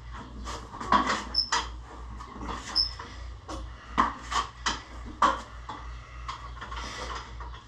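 Irregular knocks and clicks with a few short squeaks as the wheels of a machinery moving dolly are turned by hand under a milling machine, over a steady low hum.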